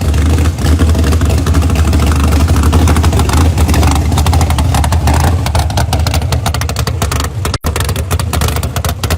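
Loud car engine running hard throughout as a dense, fast stream of firing pulses, typical of a street-race car; it drops out for an instant near the end.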